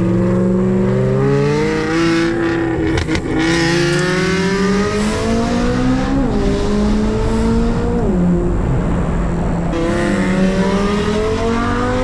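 C8 Corvette Z06 engine with an aftermarket exhaust, accelerating hard through the gears. The note climbs steadily in pitch and drops at each upshift, about two, six and eight seconds in, then climbs again near the end.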